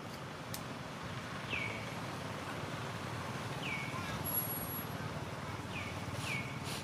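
Outdoor ambience with a steady low background rumble. A short chirp that falls in pitch and then levels off repeats roughly every two seconds, the call of a small bird.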